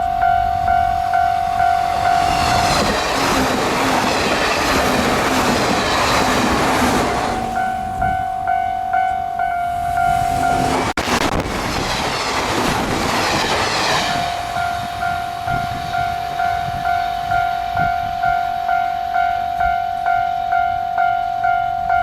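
Japanese level-crossing warning bell ringing in a steady, evenly repeated clang, about one and a half strikes a second. Trains rumble past twice and drown it out, once about three seconds in and again after an abrupt break about eleven seconds in.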